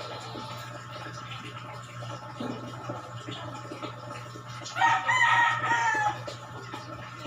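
A rooster crowing once, about five seconds in, a single call lasting just over a second over a steady low hum.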